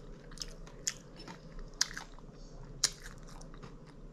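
A person chewing food close to the microphone, with small crunches and mouth clicks and three sharper clicks about one, two and three seconds in.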